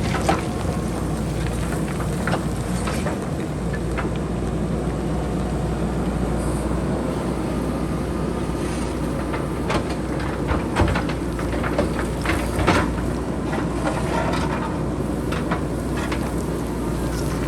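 JCB backhoe loader's diesel engine running steadily as it cuts into the hillside, with loose rocks and pebbles clattering and knocking as they tumble down the slope; the knocks come thicker in the second half.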